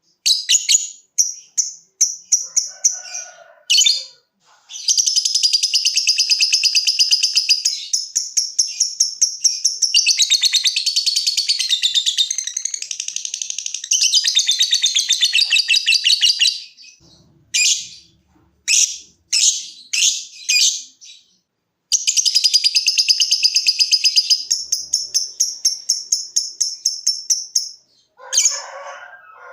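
Lovebird singing its long, rapid, chattering trill ("ngekek"): one run of about ten seconds and a later one of about five, each a fast string of sharp high notes. Short separate chirps come in between.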